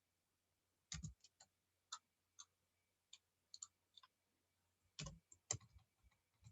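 Scattered, irregular clicks of a computer mouse, faint at first, with a few louder clicks about five seconds in.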